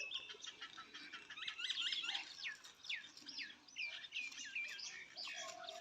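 Faint chirping of small birds: a quick run of short, high chirps sliding up and down in pitch that thins out after a few seconds.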